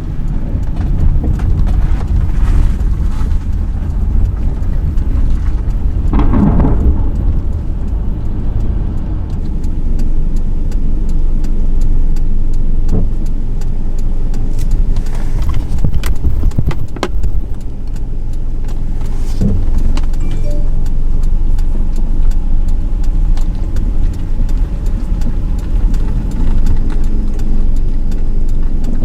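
Heavy wind-driven rain and road noise heard from inside a moving vehicle: a steady loud low rumble with scattered sharp taps.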